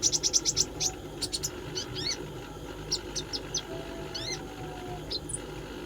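Small songbird (the kind Indonesian keepers call a konin trotol ijoan) calling. A quick run of about eight sharp, high chips comes at the start, then scattered single chirps and short slurred notes, over a steady low hum.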